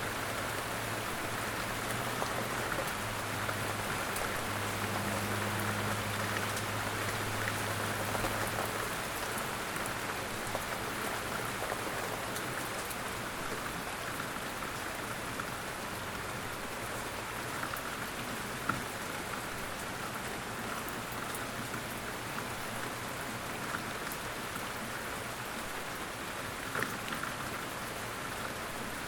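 Light rain falling steadily, an even hiss of drops with a couple of brief louder drops later on. A faint low hum sits underneath for the first nine seconds or so.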